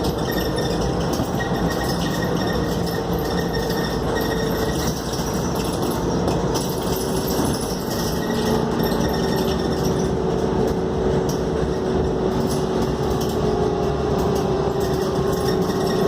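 Scania K280UD double-decker bus on the move, heard from inside: a steady run of engine and road noise with a faint whine whose pitch dips a little about halfway through.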